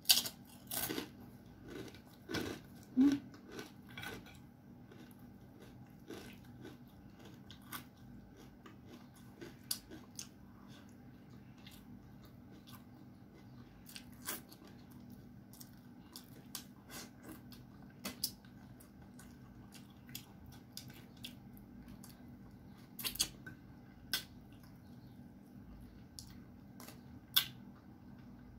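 Close-up mouth sounds of eating by hand: scattered short wet clicks and smacks of chewing, a little busier in the first few seconds, over a faint steady hum.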